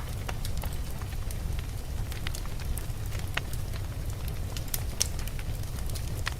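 Fireplace crackling: irregular sharp pops and ticks from the burning wood, a few a second, over a steady low rumble of blizzard wind.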